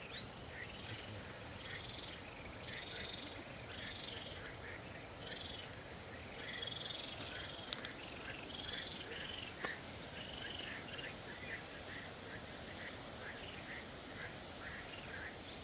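A chorus of short, high chirping animal calls, several a second, over a steady background hiss, with two sharp clicks about two seconds apart midway.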